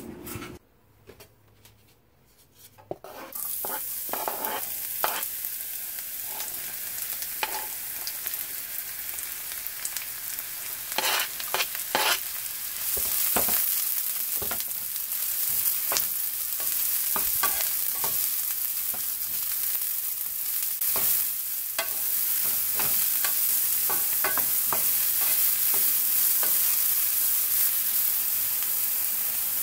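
Diced mushrooms sizzling as they fry in a pan, with a wooden spoon scraping and tapping the pan as they are stirred. The sizzle starts about three seconds in and grows louder about halfway through.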